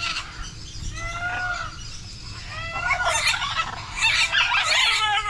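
Several birds calling: short arched calls repeated, then harsher, busier squawking in the second half.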